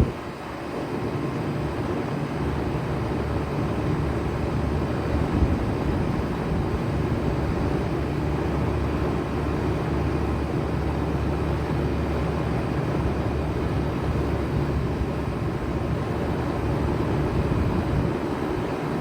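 2007 Bard 3.5-ton wall-hung heat pump running steadily in cooling mode: compressor and outdoor fan give a low hum under a steady rush of air.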